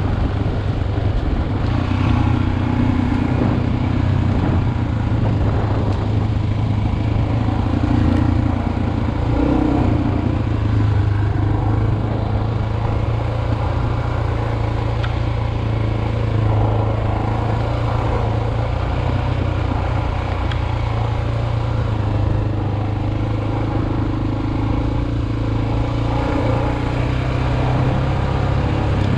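Single-cylinder four-stroke dual-sport motorcycle engine running steadily while riding, its pitch rising and falling slightly with the throttle.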